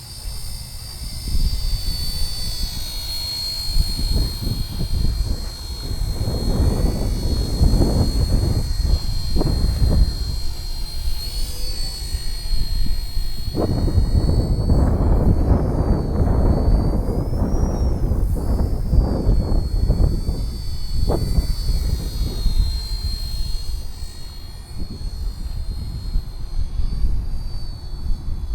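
Radio-controlled UH-1 Huey scale helicopter running with a steady high-pitched whine that briefly rises in pitch partway through, over heavy low rumbling gusts of wind or rotor wash on the microphone.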